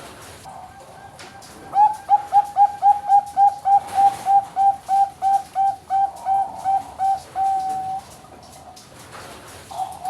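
A Bangkok-type perkutut (zebra dove) singing: a run of about twenty short, clear cooing notes, roughly three a second and slowing slightly, ending in one longer held note. Another coo begins near the end.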